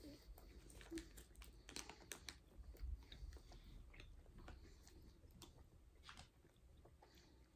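Faint, irregular chewing and small mouth clicks of people eating soft gummy candies (Haribo Berry Clouds).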